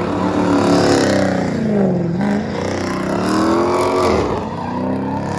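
A car engine revving hard, its pitch climbing and falling twice.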